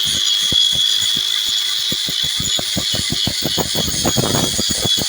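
Repeated hammer blows on metal, several knocks a second and quickening into a dense flurry about four seconds in, over the steady high-pitched whine of a running machine.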